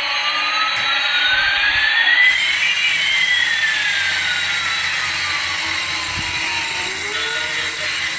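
Toy RC helicopter's small electric motors whirring over a steady hiss of rotor noise. Two whines glide in opposite directions over several seconds, one rising and one falling, crossing about three seconds in.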